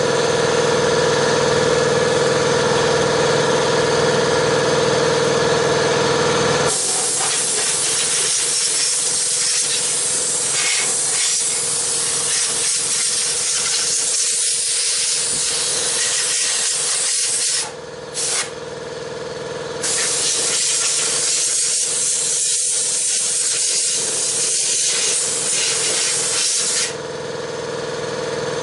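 Vacuum cleaner sucking lint and dust out of the inside of an opened dryer. It starts as a steady motor whine. About seven seconds in, a loud rushing hiss of air through the nozzle sets in and wavers as the nozzle moves, dipping briefly twice past the middle. Near the end it settles back to the plainer motor whine.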